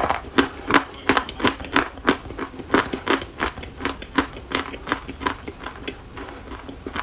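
Dry chalk being bitten and chewed, crunching in a steady rhythm of about three crunches a second.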